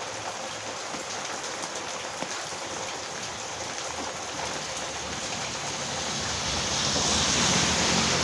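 Heavy rain falling steadily on a village road, a dense even hiss of drops on the surface. Over the last couple of seconds the sound swells louder, with a low rumble coming in underneath.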